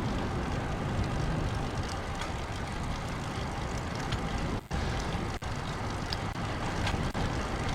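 Wind rushing over the camera microphone as a road bike gets under way in strong, gusty wind: a steady low rumble and hiss, with two brief dropouts about halfway through.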